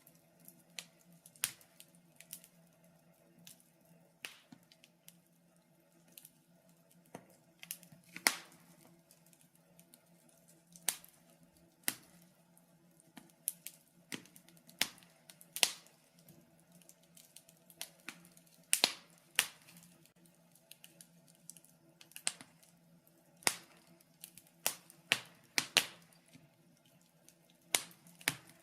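Wood fire crackling in a fireplace: irregular sharp pops and snaps, a few every second or two and some much louder than others, over a faint steady low hum.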